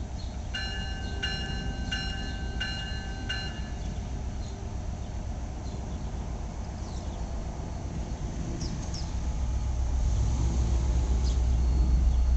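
A bell rings five times in quick, even strokes about 0.7 s apart, over a steady background hum. From about nine seconds in, the deep low rumble of an arriving NJ Transit diesel train grows louder.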